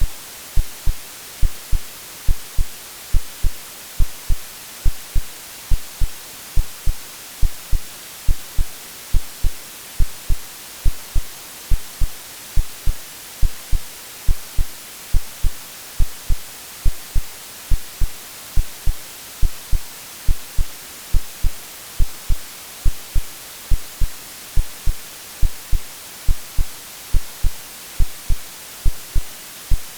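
AI-generated heartbeat, a steady lub-dub of two low thumps about once a second, over a continuous white-noise hiss.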